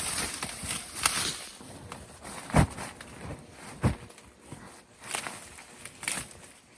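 Irregular rustling and crackling with scattered sharp clicks, and two heavy dull thumps about two and a half and four seconds in.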